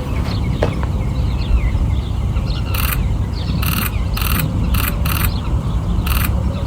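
Camera shutter firing in short rapid bursts, about seven of them starting about three seconds in. A steady low rumble runs underneath, with a few faint bird chirps.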